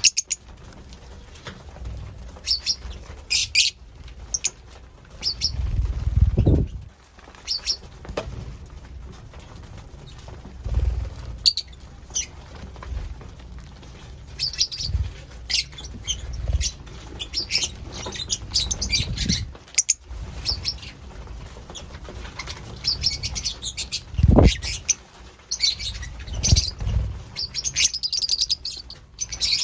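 Pet lovebirds making many short, high chirps, busiest near the end, with wing flutters and several dull low thumps.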